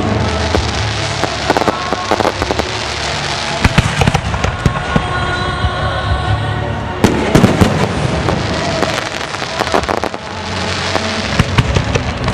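Fireworks bursting, a rapid series of sharp bangs and crackles with a dense cluster about seven seconds in, over music playing.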